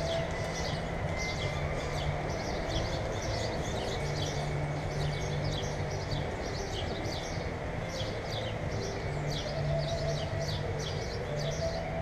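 Small birds chirping in the background: a steady run of short, high, falling chirps, several a second. Under them is a constant outdoor hiss and a low hum that comes and goes.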